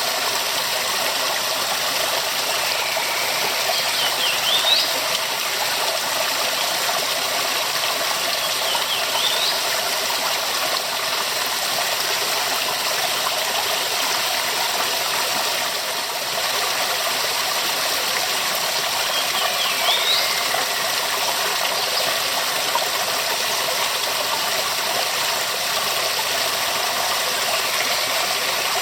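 Waterfall running: a steady, even rush of falling water. A few faint, brief high chirps rise above it now and then.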